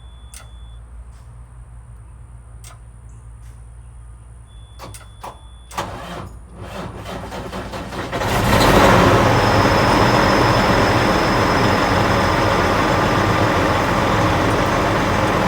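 Diesel engine of a 2001 Freightliner Century cold-started after sitting unrun for about three months. A few clicks and short beeps come first, then it cranks for about two seconds, catches about eight seconds in and runs steadily and loudly.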